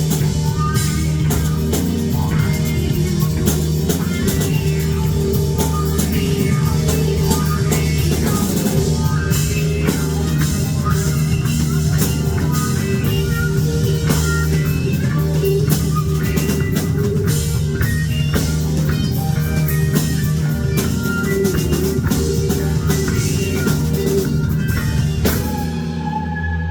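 Rock band playing an instrumental passage on electric guitar and drum kit, with dense cymbal and drum hits. About a second before the end the drums stop and a held chord rings on.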